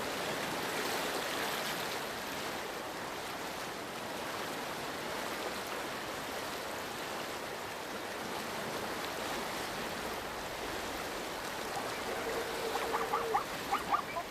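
River water rushing steadily. Near the end, a quick run of short, high animal calls.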